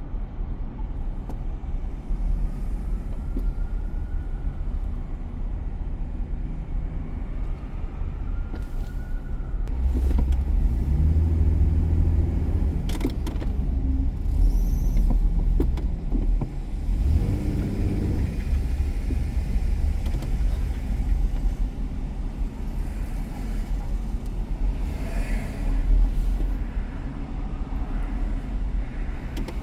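A car driving on city streets: steady engine and road rumble, growing louder twice near the middle with a deeper pitched engine hum.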